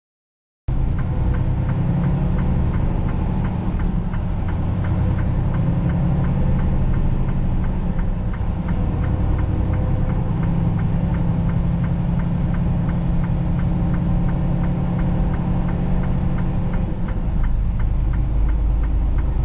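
Steady low drone of a semi truck's diesel engine and road noise heard inside the cab while driving, with a fast, even ticking over it. It cuts in suddenly under a second in.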